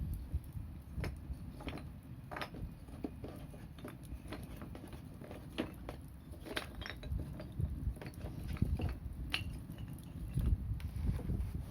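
Wood campfire crackling: irregular sharp pops and ticks, a few a second, over a steady low rumble.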